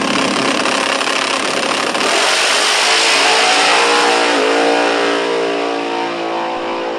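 Race car engine running hard at full throttle, loud and rough, with a brief dip in pitch about four and a half seconds in before it holds steady again.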